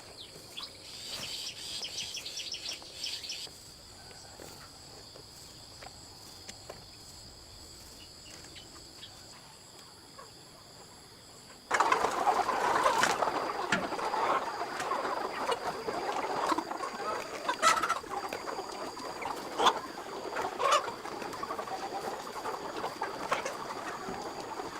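Chickens: quick high chirping for the first few seconds, then a quiet stretch, then from about halfway a louder, steady stretch of clucking and wing-flapping with scattered sharp clicks.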